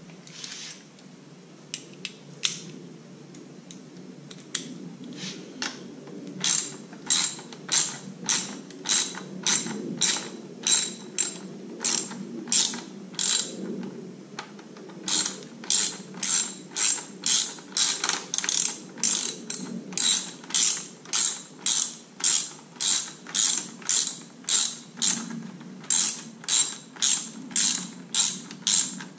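Ratchet wrench clicking in repeated strokes, about two a second, loosening the bolts of a motorcycle's slip-on exhaust. A few scattered clicks come first, then steady runs with two short pauses.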